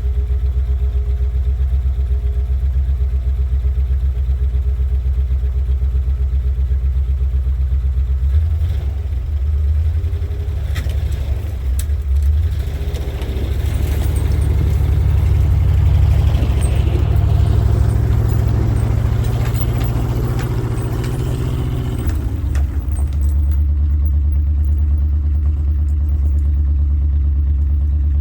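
1967 International 1200 truck engine running at a steady idle, then working harder for about fourteen seconds from about a third of the way in, as when the truck is put under load and moved, before settling back to idle.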